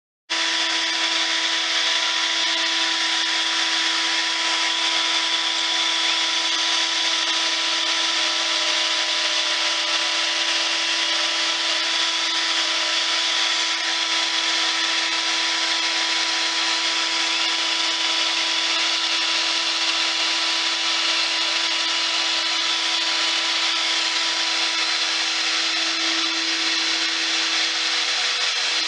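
Shop vacuum running steadily as dust extraction on a pocket-hole jig, a constant whine and rush of air with no change in pitch.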